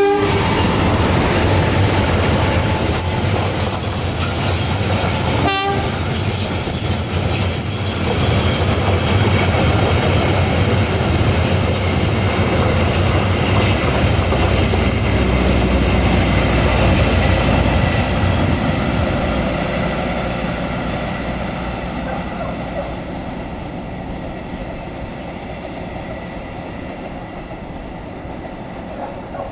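Passenger coaches of a diesel-hauled train rolling past on a curve: a steady wheel-on-rail rumble with clickety-clack over the rail joints. It fades gradually over the last ten seconds as the train draws away.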